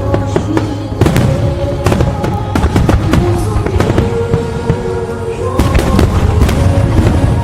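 Fireworks bursting in quick succession, many sharp bangs and crackles, over loud music with held tones and a heavy low bass.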